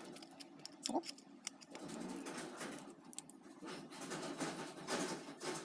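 Small clicks and scratching of a mobile phone's plastic parts being handled and pried apart by hand, with irregular light ticks and rustles.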